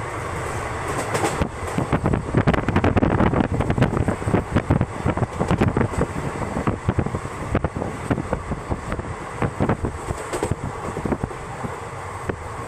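Passenger train running, its wheels clattering over rail joints and points in many irregular sharp knocks over a steady rumble, densest in the first half.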